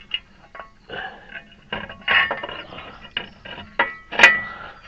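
Metal parts and tools clinking and knocking as a CV axle and wheel hub parts are handled and fitted together: a run of separate sharp clinks, the loudest a ringing metal strike near the end.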